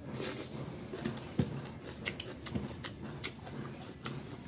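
A man chewing chicken leg curry and rice with his mouth close to the microphone: wet mouth clicks and smacks, irregular, two or three a second.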